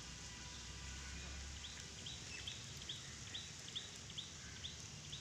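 A bird repeating a short, high chirp about three times a second, starting about a second and a half in, over faint outdoor background noise.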